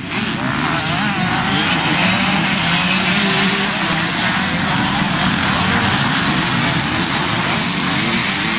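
Several motocross bikes racing, their engines revving up and down over one another in a continuous loud drone.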